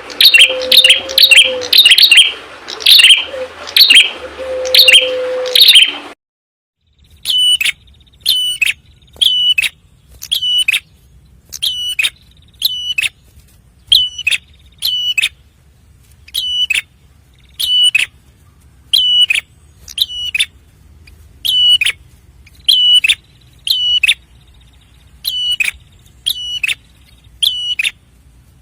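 A prenjak kepala merah (a prinia) calls over and over in sharp, high chirps, about one a second. In the first six seconds the calls sit over background noise. After a short break the calls carry on in a cleaner recording.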